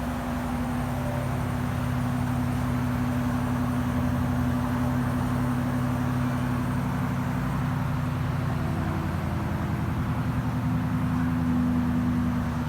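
GMC Sierra AT4X pickup's engine running at a steady, even speed, a low hum with a fine regular pulse that neither rises nor falls.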